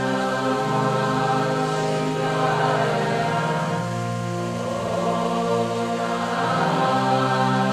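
Devotional mantra chanting: a steady sustained drone with a voice singing long, sliding notes over it.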